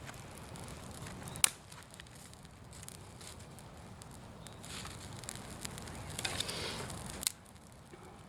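Bonfire of fallen leaves burning and crackling, with scattered small snaps and a sharp pop about a second and a half in and another near the end.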